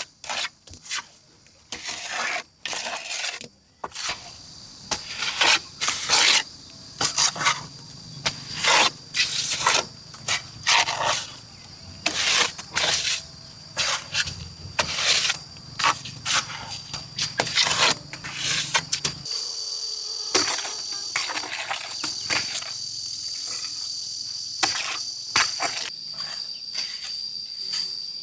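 A steady high insect trill, typical of crickets, under a series of short, loud, rough strokes, like scraping or crunching work. The trill stands out more clearly in the last third, where the strokes thin out.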